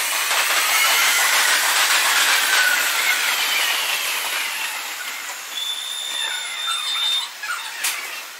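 Meitetsu electric trains running through the station tracks, sped up four times: a hissing wash of rail noise with several falling whines in the first few seconds and a short steady high whine later on, fading somewhat in the second half.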